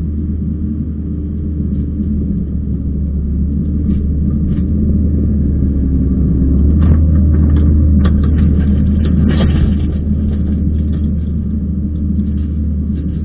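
Kubota skid steer's diesel engine running under load, swelling louder for a few seconds midway, with clanks and scraping around the loudest part.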